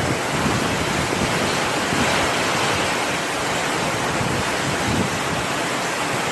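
Torrential rain and strong gusting wind of a severe thunderstorm squall line: a steady, loud rushing noise.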